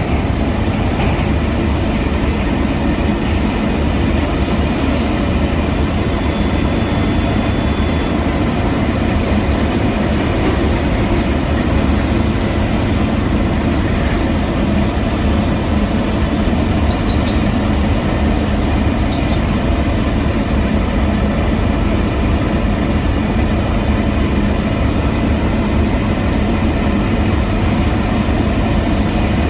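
Heavy diesel road-construction machinery running steadily, a continuous low engine drone with no breaks.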